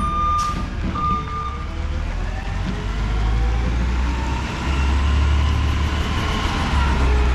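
Garbage truck's backup alarm beeping twice more, then stopping, over the diesel engine. The engine then revs up and eases back down over a steady low rumble.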